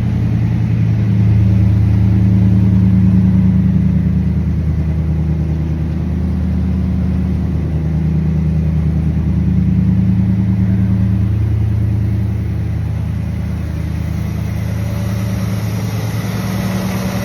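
1959 Cadillac's 390 V8 running steadily just after a cold start following a long sit. The engine note swells a couple of times, then settles lower.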